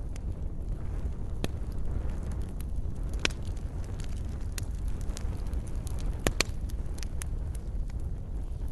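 Wood fire in a fireplace crackling and popping, with sharp irregular snaps over a steady low rumble of the flames.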